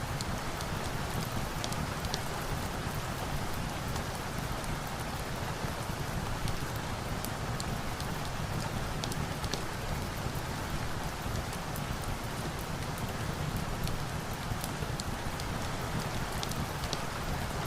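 Steady rain falling, an even hiss with scattered sharp clicks throughout.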